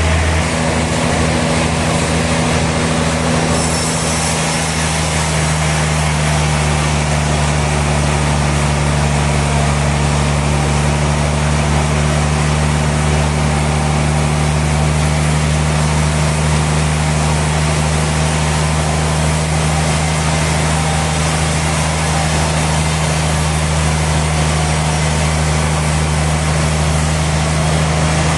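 Sawmill machinery running steadily: a loud, even, deep hum with a constant hiss over it.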